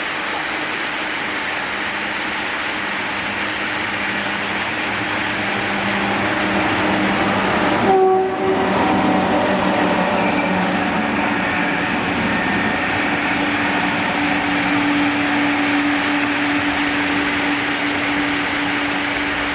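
A train running, a dense steady noise with a low hum underneath. About eight seconds in, a brief loud burst with a short tone, like a quick horn note.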